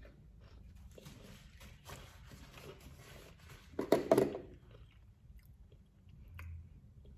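Close-up eating of a taco: soft chewing with one loud crunchy bite about four seconds in.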